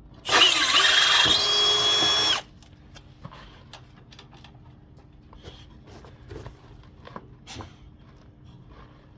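Power drill running in one burst of about two seconds, its motor whine rising as it spins up and then holding steady before it stops, followed by faint light clicks and knocks.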